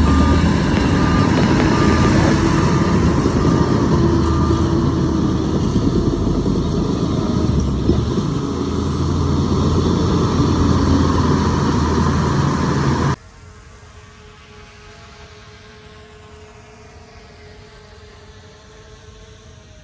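Heavy diesel construction machine running loudly, with its reversing alarm beeping roughly once a second for the first few seconds. About 13 seconds in, the loud engine cuts off abruptly and gives way to a much quieter, steady engine hum.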